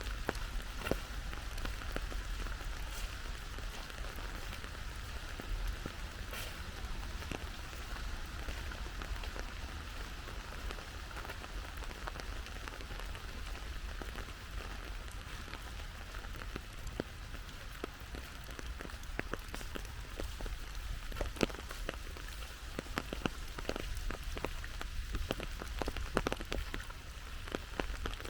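Steady rain falling, a constant hiss with many individual drops tapping close by, the taps coming more often in the second half.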